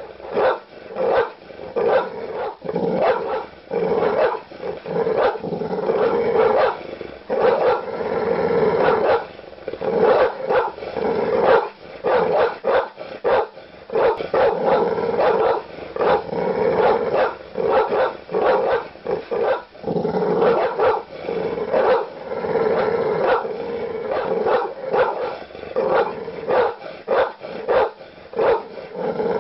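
Large dogs barking aggressively with deep, loud barks, several a second in dense, unbroken runs that in places run together.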